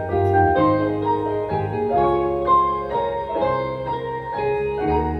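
Live band playing a song's instrumental intro: a melody of changing notes over a steady low bass line.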